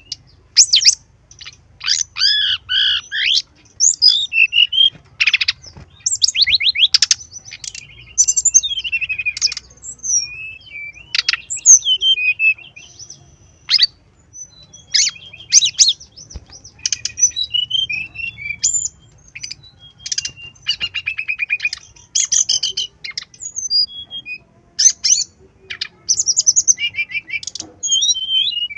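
Brown-chested jungle flycatcher singing: a rapid string of varied chirps, buzzy trills and short whistled phrases, one burst after another with brief pauses.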